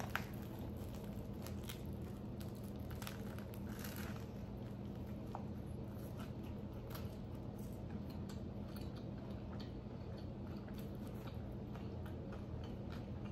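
Close-up bite into a vegan Nashville hot chicken sandwich, then chewing with crisp crunches. The crunches are densest in the first few seconds and grow sparser.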